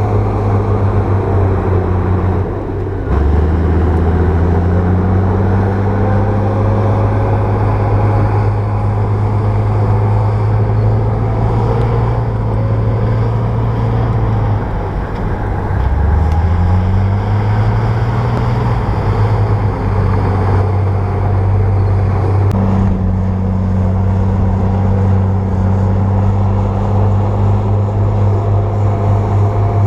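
Komatsu bulldozer's diesel engine running hard, its speed dipping and then climbing back twice, about three seconds in and again about sixteen seconds in.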